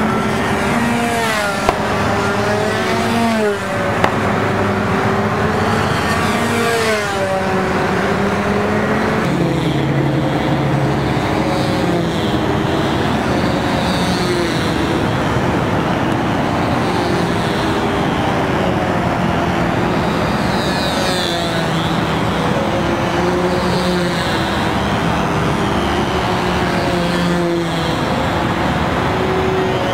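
Model airplane engine running fast and steadily, its pitch rising and falling in slow waves as the control-line plane circles on its cables. Two sharp clicks sound within the first four seconds.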